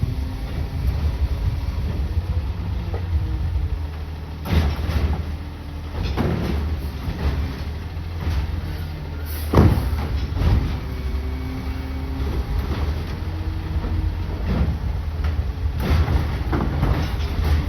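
A CNG garbage truck with a steady low engine rumble, broken by a few sharp metallic bangs and clanks, the loudest about halfway through.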